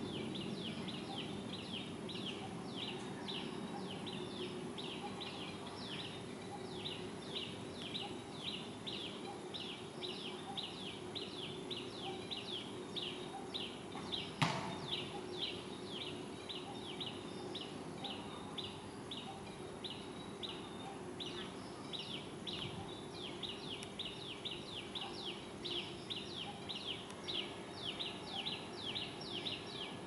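A bird calling over and over, about two to three short high notes a second without a break, over a steady low background hum. A single sharp knock comes about halfway through.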